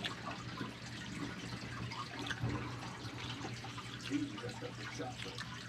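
Faint wet mouth clicks and smacks of people chewing a soft candy, over a steady low hum.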